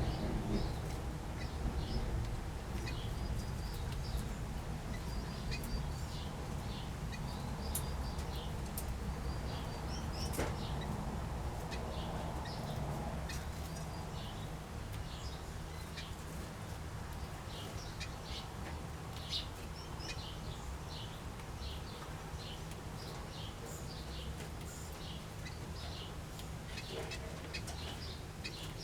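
Small aviary birds (finches, waxbills and turquoise parrots) calling in many short, high chirps and tweets, now and then with a flutter of wings, over a steady low rumble.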